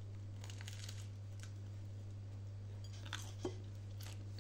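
Close-up mouth sounds of biting into and chewing a ham, cheese and salad toast sandwich: soft scattered clicks and crackles, with one sharper click near the end. A steady low hum runs underneath.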